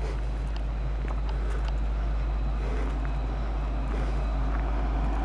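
Luas light-rail tram running past along the track, a steady, even rumble with no sudden sounds.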